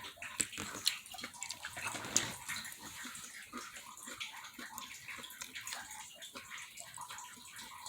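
Water trickling and dripping into a tub or sink, an irregular patter of small splashes that grows fainter toward the end.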